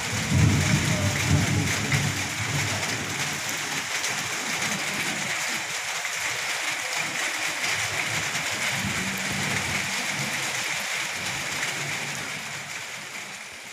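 Steady rain hissing down during a thunderstorm, with a low thunder rumble in the first couple of seconds that dies away. The rain eases off a little near the end.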